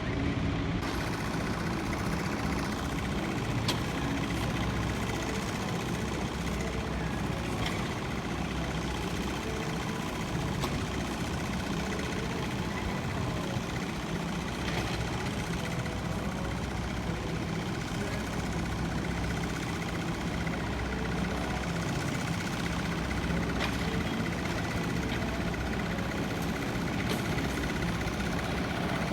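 An engine running steadily at idle, a continuous low hum with no rise or fall in pitch.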